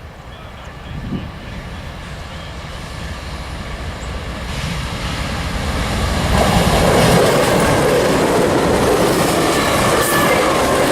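Diesel-electric freight train approaching and passing: locomotive engines rumbling under a rising wash of wheel and rail noise, growing steadily louder until about six seconds in, then staying loud.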